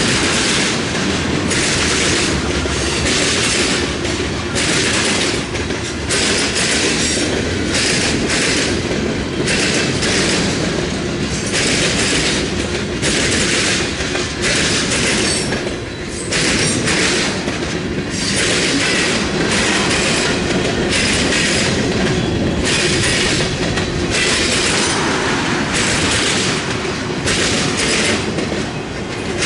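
CSX freight train's cars rolling past close by: a steady rumble with the wheels clattering over the track about once a second.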